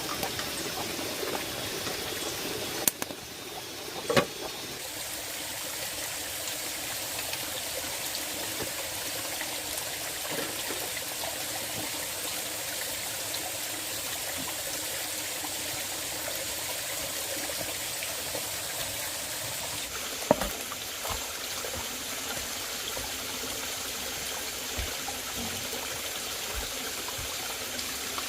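Steady rush of running water, with a few sharp knocks about three and four seconds in and again about twenty seconds in.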